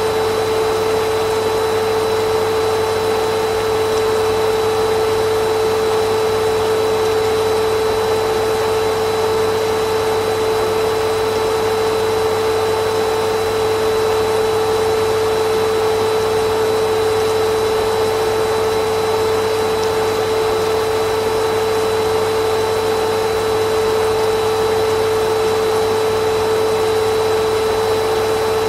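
Vacuum cleaner running steadily with a constant whine from its motor over an even rush of air, with no change in speed or load.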